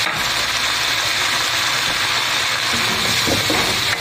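Chicken frying in a pan with soy sauce, vinegar and chili sauce, sizzling steadily.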